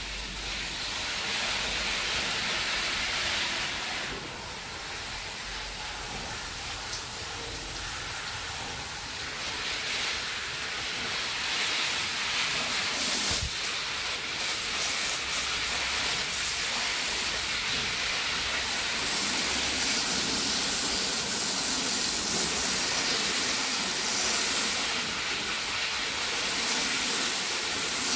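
Steady hissing noise, with most of its energy in the upper range, that gets a little louder about halfway through.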